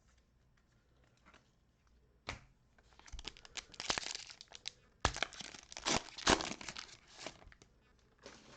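A 2021 Donruss trading-card pack wrapper being torn open and crumpled: a sharp rip about two seconds in, then a run of crinkling and crackling with several loud snaps of the plastic, dying down near the end.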